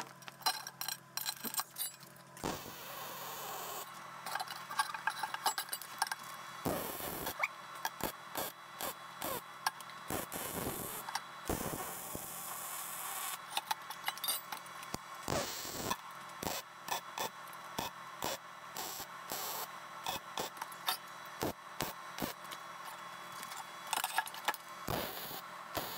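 Welding on a steel exhaust down pipe: a crackling hiss laid down in several runs, broken by short pauses.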